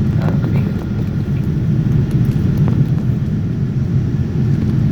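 Steady low rumble of engine and airflow noise inside a Boeing 787-9 passenger cabin in flight, heard from an economy window seat.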